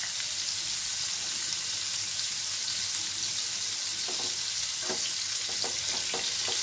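Halved pointed gourds (potol) sizzling as they shallow-fry in mustard oil in a frying pan: a steady hiss, with a few sharper crackles from about four seconds in.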